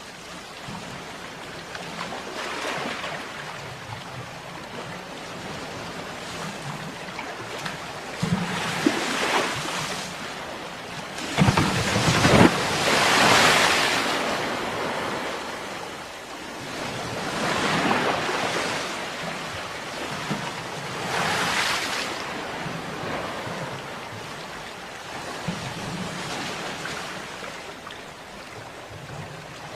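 Sea waves breaking and washing on a shore in repeated swells, the loudest about halfway through.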